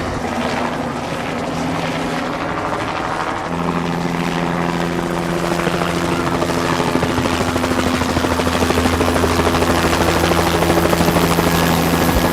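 Helicopter running: a steady mechanical whine over dense rushing noise, growing gradually louder.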